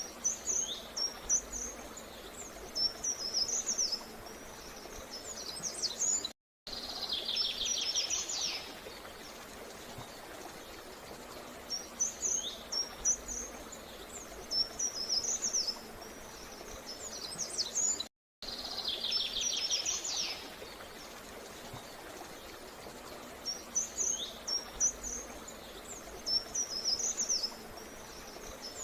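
Songbirds singing in repeated phrases of quick high chirps and a short buzzy trill, over a steady outdoor hiss. The same stretch repeats about every twelve seconds, with a brief total dropout at each restart: a looped recording.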